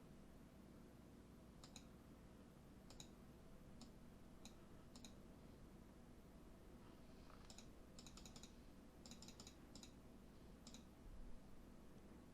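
Faint, sharp clicks at a computer desk: single clicks every second or so at first, then quick runs of several clicks in the second half, over a low steady hum.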